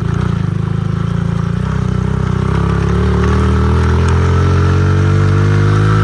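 Honda CRF50 pit bike's small single-cylinder four-stroke engine running under a rider, chugging at low revs and then climbing steadily in pitch over the last few seconds as it picks up speed.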